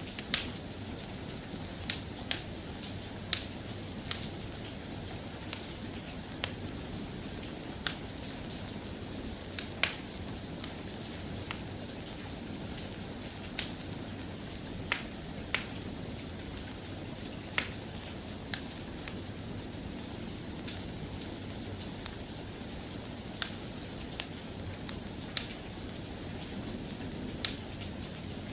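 Steady rain falling, with scattered sharp ticks at irregular intervals over the even hiss.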